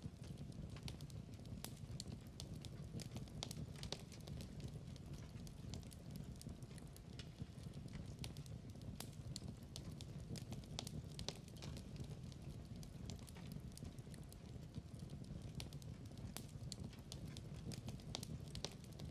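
Wood fire in a fireplace crackling, with a steady low rumble of flames and many small, irregular pops and snaps.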